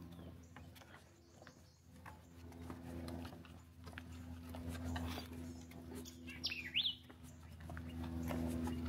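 A wild bird gives one short call about six and a half seconds in, a whistle that falls and then rises, over a steady low hum and scattered soft ticks.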